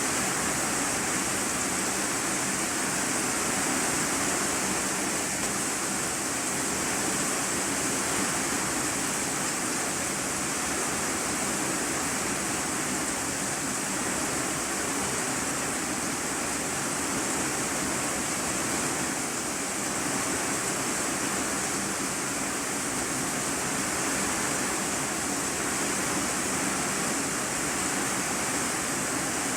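Steady heavy rain drumming on a corrugated iron-sheet roof, heard from the room below as an even, unbroken hiss.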